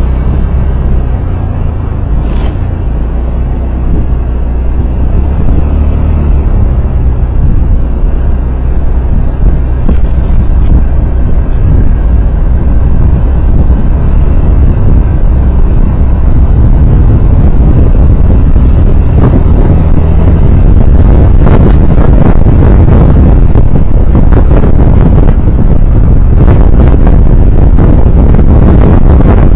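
Steady low rumble of a moving road vehicle, with engine and road noise. About two-thirds of the way through it grows louder and rougher, with buffeting on the microphone.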